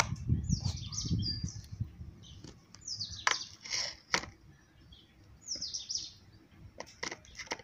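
Small birds chirping in short, falling calls several times, over soft scraping and a few sharp knocks as a wooden stick works thick rice-flour dough in an aluminium pot.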